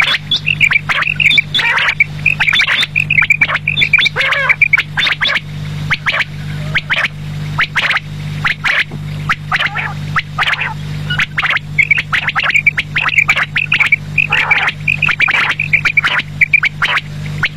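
Quail calling over and over: rapid sharp clicks and bursts of quick chirping notes, over a steady low hum.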